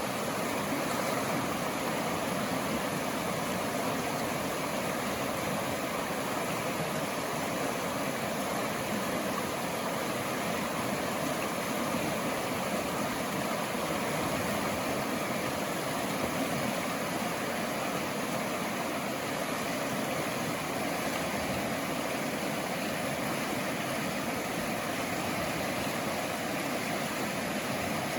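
Running water rushing steadily, an even noise without breaks.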